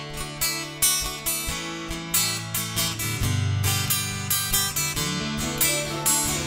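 Acoustic guitar strumming chords in a steady rhythm, playing a song's instrumental intro live.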